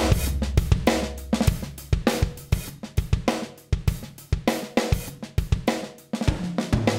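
Recorded drum kit playing a groove of kick, snare, hi-hat and cymbal hits, heard through a Black Lion Audio Bluey 1176-style FET limiter. The kit thins out and drops in level midway, then comes back fuller with a low bass underneath about six seconds in.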